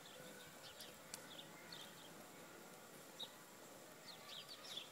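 Faint, scattered bird chirps, short high calls every second or so, over a quiet outdoor background.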